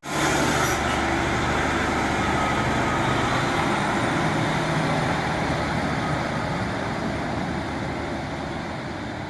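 Diesel train running: a steady low engine drone under a loud rushing noise, easing off slightly toward the end.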